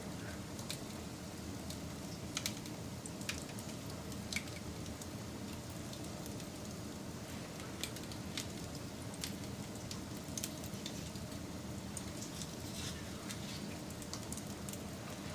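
Wood fire crackling: irregular sharp pops and snaps over a steady low hiss of the flames.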